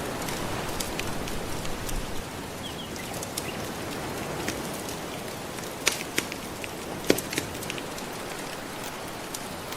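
Wood fire crackling, with several sharp pops in the second half, over a steady wash of gentle ocean waves.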